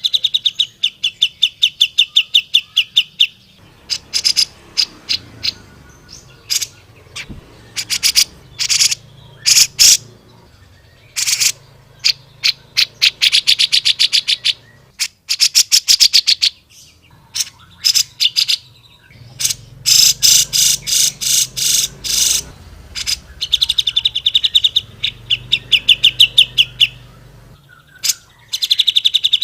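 Grey-cheeked bulbul (cucak jenggot) singing in loud, energetic bursts: rapid runs of sharp repeated notes, about ten a second, alternating with harsher chattering phrases, with short pauses between them.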